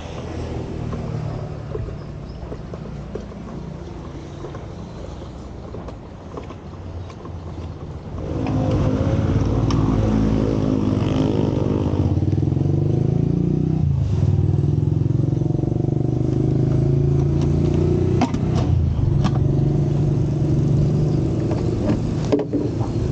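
Motor vehicle engine and road traffic. About eight seconds in, an engine close by gets much louder and keeps running, its pitch changing in steps as it speeds up and slows.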